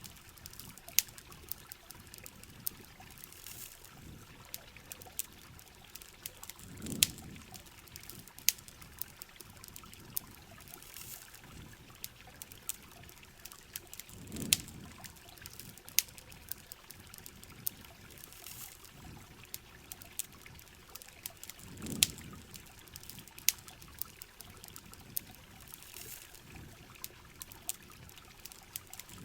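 Steady rain, with water trickling and pouring, mixed with the frequent sharp crackles and pops of a campfire. A low whooshing swell rises and fades about every seven and a half seconds.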